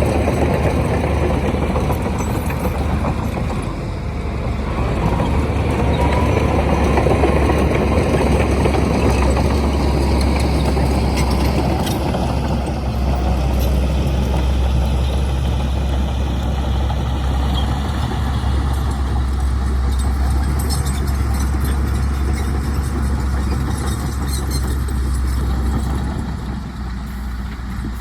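Heavy diesel engine of an earthmoving machine running continuously with a deep, steady drone. The pitch and load swell up in the first third and then settle back down.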